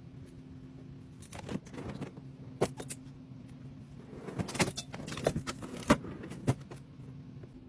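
Light clicks, clinks and knocks of containers and food items being handled and set down while stocking a fridge, busiest in the second half, over a faint steady low hum.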